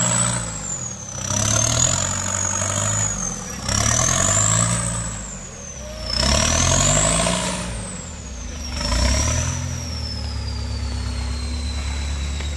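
Off-road 4x4 engine revving in about five surges under load, its pitch climbing and dropping with each burst of throttle, then holding steadier near the end. A thin high whistle wavers up and down in pitch throughout.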